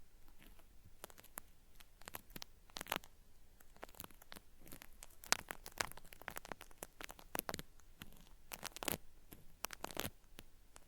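Cotton swab scraping at the ear of a binaural microphone, a crisp, crackly ear-cleaning sound meant to mimic earwax being peeled away. The crackles come in irregular clusters of sharp ticks, some louder than others.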